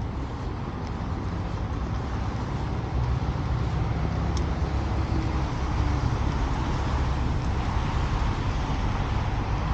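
Steady street traffic noise of cars passing on a city avenue, a continuous low rumble that gets a little louder about three seconds in.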